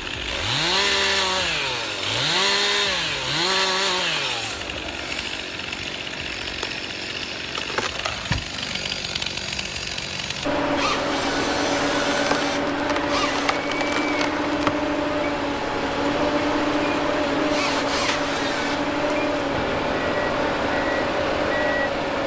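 Chainsaw revved up and back down three times in quick succession, then running more roughly and quieter. About halfway through it gives way abruptly to a steady, even engine drone.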